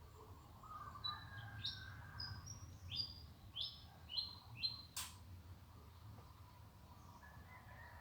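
A bird sings a quick series of about eight short, high chirps, each dropping in pitch, with fainter lower calls around it. A single sharp click comes about five seconds in.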